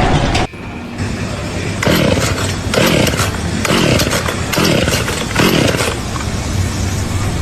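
An engine revving up and down about five times in a row, over a steady low hum, after an abrupt cut about half a second in.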